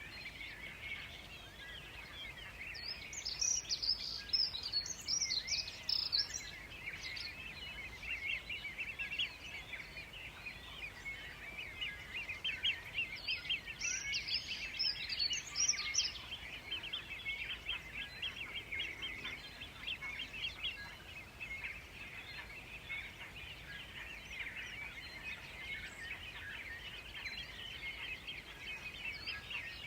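Birds chirping in a steady chorus of quick, high calls. Two higher song phrases stand out over it, one about three seconds in and one about thirteen seconds in, each lasting about three seconds.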